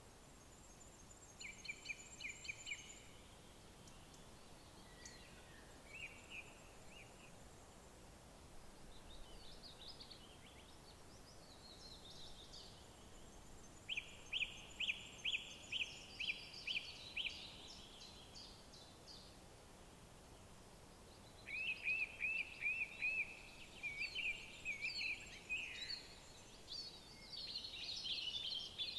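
Several songbirds singing, with overlapping songs of quick repeated notes. The loudest is a run of about eight sharp notes near the middle, with another rapid series a few seconds later, all over a faint steady background hiss.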